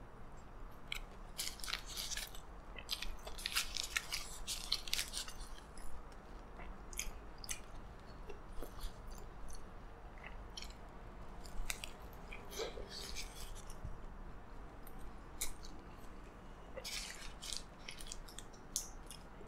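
A person biting into and chewing a double cheeseburger close to the microphone: wet mouth clicks and soft bites in irregular clusters, with pauses between mouthfuls.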